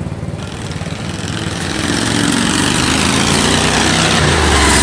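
An engine running, growing louder from about halfway through, with a deep rumble swelling near the end as it comes closer or revs up.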